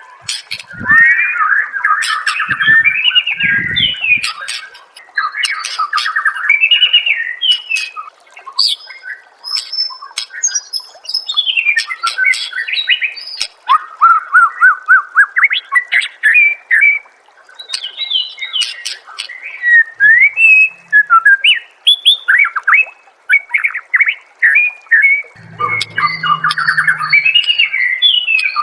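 White-rumped shama (murai batu) singing a fast, varied song of chattering trills, rapid repeated notes and whistles, in phrases broken by short pauses. A few low thumps sound in the first four seconds.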